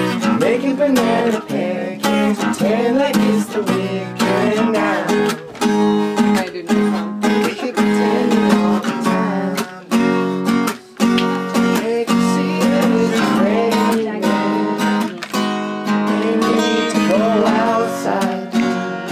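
Acoustic guitar strummed in a steady rhythm, with a singing voice at times.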